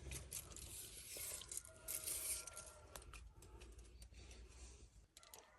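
Irregular rustling and scraping with a few light clicks, like something being handled or moved about.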